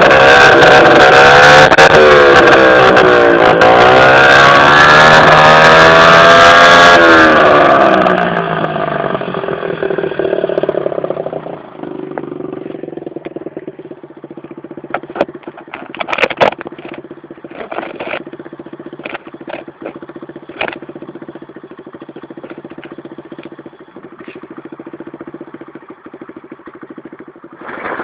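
Baotian 50cc scooter engine with a stunt-version exhaust, revved hard with the pitch rising and falling over and over for about eight seconds, then dropping back to a steady idle. A few sharp clicks sound during the idle.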